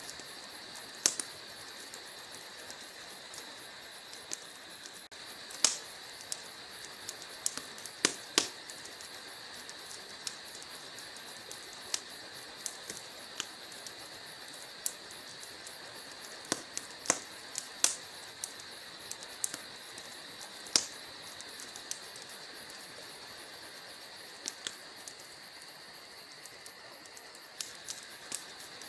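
Wood logs burning in a fireplace, crackling: irregular sharp pops and snaps over a steady hiss.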